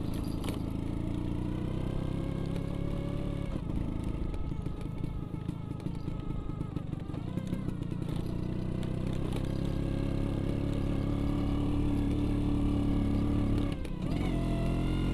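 Vespa scooter engine running under way, its pitch rising and falling with the throttle, climbing gradually in the second half and dropping briefly near the end.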